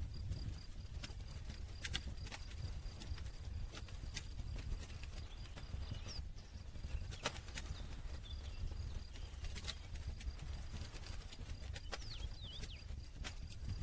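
Wood campfire crackling: irregular sharp pops and snaps over a steady low rumble of the burning fire.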